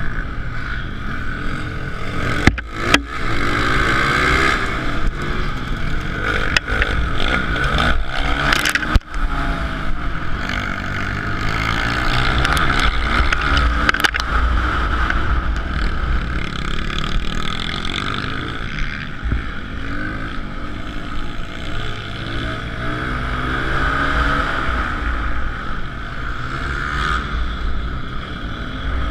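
Suzuki DR-Z125L pit bike's single-cylinder four-stroke engine running hard, its pitch rising and falling as the throttle is worked through the race, with wind buffeting and a few sharp knocks.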